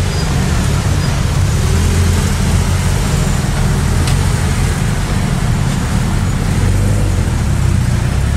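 Car engines running at a standstill: a low, steady rumble that holds level, with no revving.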